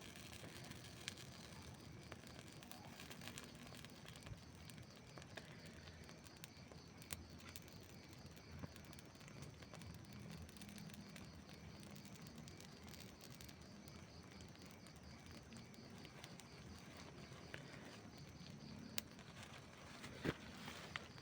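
Wood campfire crackling softly: scattered sharp pops and snaps over a faint low hiss.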